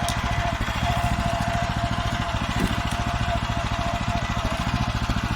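Farmer 1511 walk-behind tractor's engine running steadily under way, with an even, rapid firing beat and a steady whine alongside.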